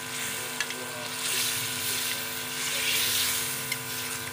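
Chicken pieces sizzling in hot oil and masala in a pot, with a little water just added, stirred with a metal spoon that clicks against the pot about half a second in and again near the end. The sizzle swells louder through the middle, over a steady low hum.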